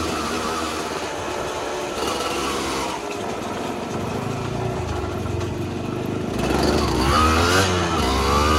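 Dirt bike engine running, then revved up and down several times, louder over the last couple of seconds.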